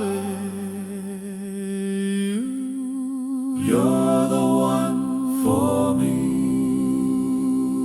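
Closing bars of a vintage-style love song: a voice humming long, wordless notes with vibrato. The notes step up in pitch about two and a half seconds in, then change again a few times.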